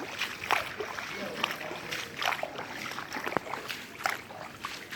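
Floodwater sloshing and splashing in short, irregular splashes.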